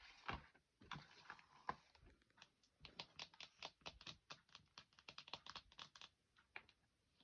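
Quick, light taps and clicks from a smartphone and its plastic case being handled. They come fast and irregular, densest for a few seconds in the middle.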